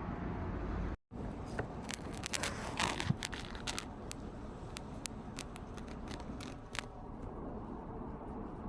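Wind buffeting the microphone, a steady low rumble with hiss. The sound drops out for an instant about a second in. Scattered light clicks and taps follow for several seconds.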